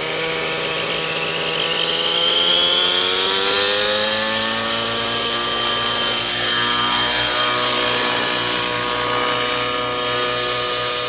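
Glow-fuel nitro engine of a T-Rex 700 RC helicopter running at high revs, its pitch climbing about two seconds in and then holding steady.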